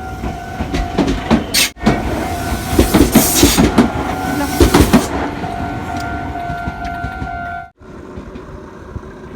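Electric commuter train moving along the station platform: a steady electric tone under a loud rush of air and wheel clatter, cutting off suddenly near the end.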